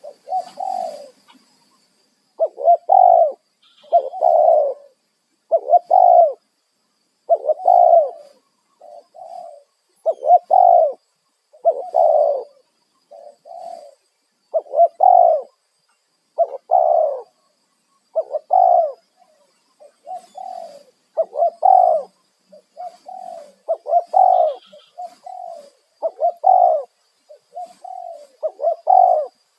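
Spotted dove cooing over and over: loud, low coo phrases come one every second or two, with fainter, shorter coos in between.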